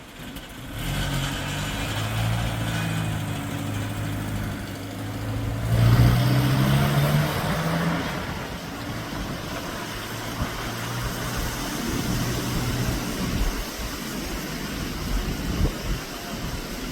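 1978 Land Rover fire truck's engine running, coming in about a second in. It rises in pitch and level briefly around the middle, then settles back to a steady idle.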